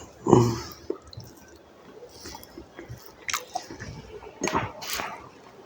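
Close-up eating sounds: wet chewing and smacking of rice and curry in the mouth, with irregular short squelches and clicks. The loudest comes about a third of a second in.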